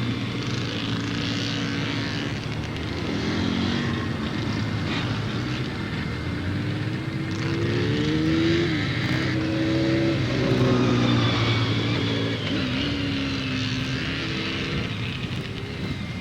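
Several motorcycle engines revving up and down as the bikes ride the practice course, their pitch climbing and dropping repeatedly, loudest about halfway through.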